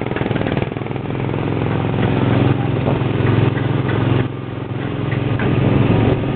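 Small gasoline engine of a theme-park race car ride running at a steady drone as the car drives along the track. The level dips briefly about four seconds in.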